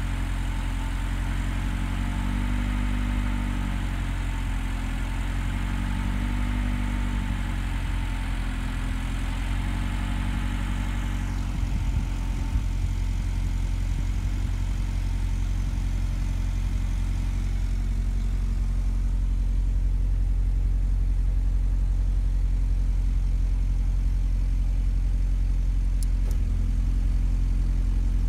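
Car engine idling steadily at about 1,300 rpm soon after a start, heard from inside the cabin, with a note the owner feels sounds somehow heavy. A high hiss fades out about eleven seconds in, and the low rumble grows slightly louder later on.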